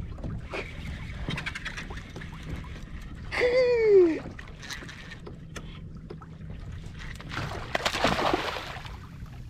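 Water splashing and knocking around a kayak, with a man's falling wordless exclamation about three and a half seconds in and a louder burst of splashing near the end.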